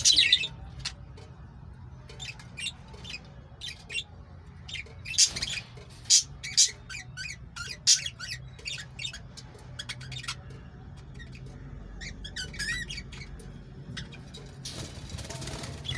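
Pet lovebirds chirping and squawking, with many short, sharp, high calls throughout and a quick warbling run about twelve seconds in, over a faint steady low hum.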